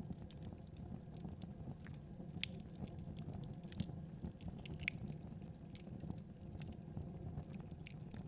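Wood fire crackling: a steady low rumble of burning with scattered sharp snaps and pops, a few of them louder in the middle.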